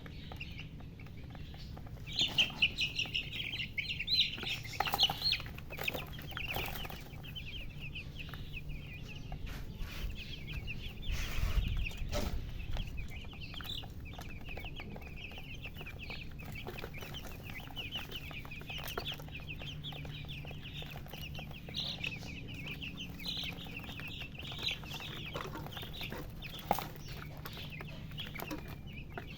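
A brood of baby chicks chirping, with many short, high peeps overlapping almost continuously and a louder flurry a couple of seconds in, over a faint low hum.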